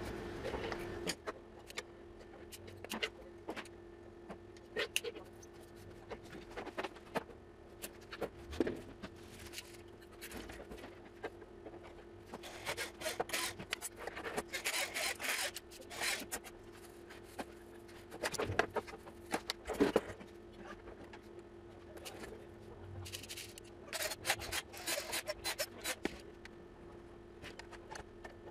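Bench work on an inverter repair: irregular rubbing, scraping and clicking of parts and tools being handled, over a steady low hum.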